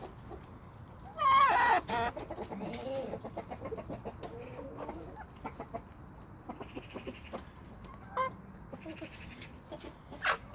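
Domestic chickens clucking, with one loud, wavering squawk about a second in, followed by low murmuring clucks and many light pecking taps. A short sharp sound comes near the end.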